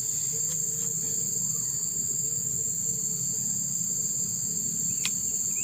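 Steady, shrill chorus of insects such as crickets or cicadas, with a low steady rumble beneath. There is a single click about five seconds in, and a bird gives a few short chirps near the end.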